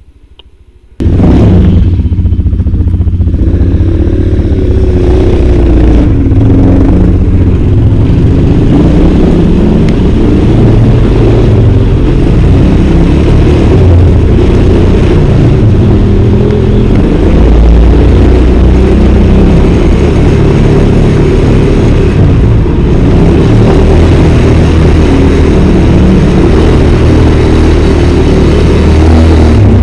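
Motorcycle engine running very loud and close, its pitch rising and falling as the throttle changes. It comes in abruptly about a second in.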